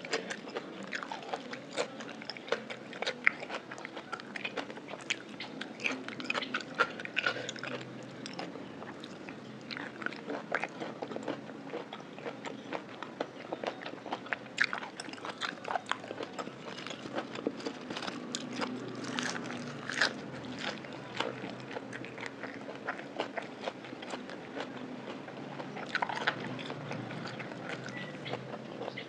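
Close-miked mouth sounds of a person chewing a spicy Thai lime salad with raw shrimp, a dense run of short, sharp, wet clicks and bites.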